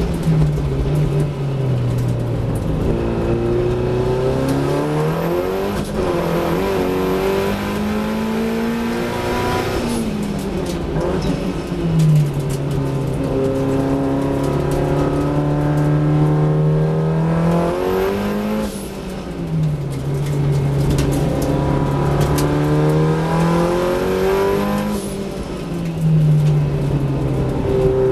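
Datsun 1600 race car's four-cylinder engine under hard use on track, heard from inside the car. Its revs rise and fall repeatedly through the lap, with sudden jumps in pitch between stretches of steady running.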